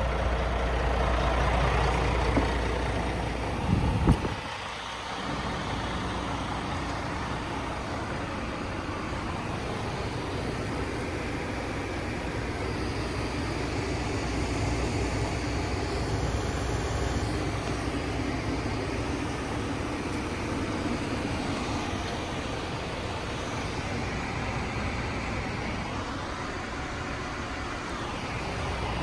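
Scania S500 V8 diesel truck engine running, with a deep low rumble at first. A sharp knock comes about four seconds in; after it the deep rumble drops away and a steadier, thinner running noise continues.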